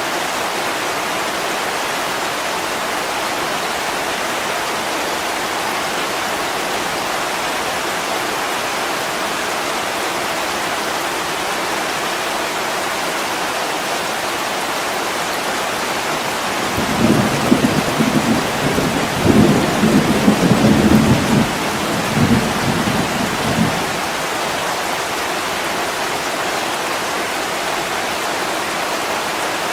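Steady heavy rain on a window glass, with a low rumble of thunder rolling in waves for several seconds a little past the middle.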